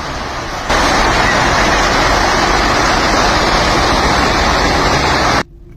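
Rushing floodwater of a flash flood in a mountain stream, a loud steady noise that jumps louder about a second in and cuts off suddenly near the end.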